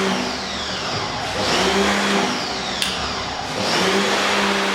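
A machine's steady hum cuts out and comes back twice, with a high whine winding down each time it stops. There is one sharp click about three seconds in.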